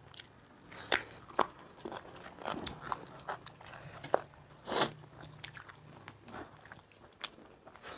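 Close-up eating sounds of rice and curry eaten by hand: chewing and biting with irregular crunches and clicks, the loudest about a second in and near the middle.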